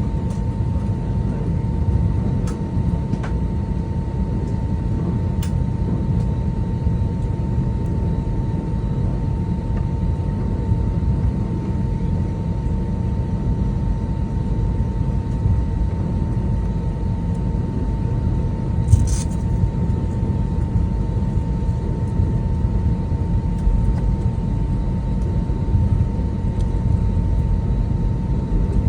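Airbus A320 cabin noise: a steady low rumble with a constant engine whine running through it. A few light clicks in the first few seconds and a brief rattle about 19 seconds in.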